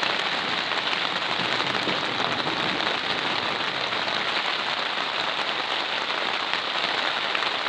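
Heavy rain drumming on the plastic roof of a polytunnel, a steady dense patter of drops.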